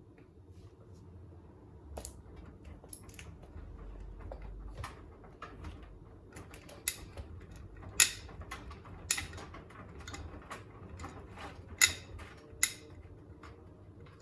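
Beko WTK104121A washing machine turning its drum with a full load, a low motor hum under irregular sharp clicks and knocks, three of them much louder than the rest.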